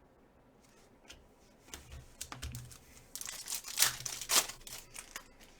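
Trading cards being handled, slid and flicked one past another, giving crisp clicks and rustling scrapes that get busier and louder from about three to four and a half seconds in.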